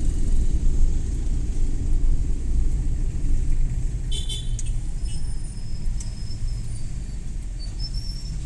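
Suzuki Every Wagon (DA64W) kei van driving on city streets: steady low engine and road rumble, with a short high-pitched horn beep about four seconds in.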